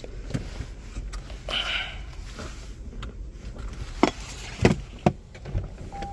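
A run of sharp clicks and knocks from controls being handled inside a parked Toyota Prius cabin, the loudest a few in quick succession about four to five seconds in. A steady electronic beep starts at the very end.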